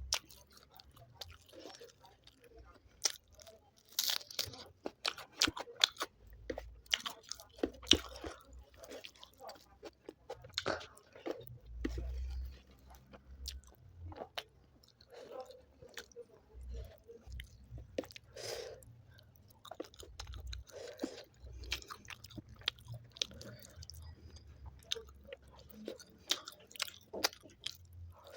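Close-miked eating: chewing and biting into spicy chicken curry with rice, with many irregular sharp clicks and smacks of the mouth.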